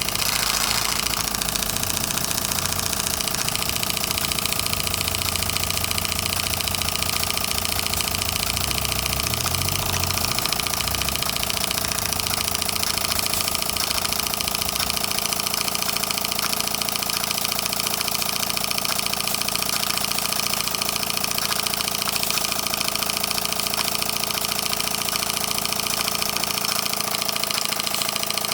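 Tiny governor-controlled model steam engine running steadily on steam as the boiler pressure falls.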